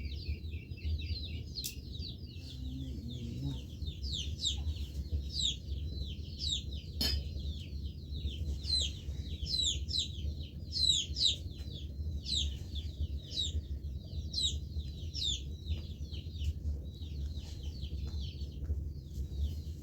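A dense chorus of short, high, downward-sliding chirps from many small birds, overlapping continuously, over a steady low rumble. A single sharp click sounds about seven seconds in.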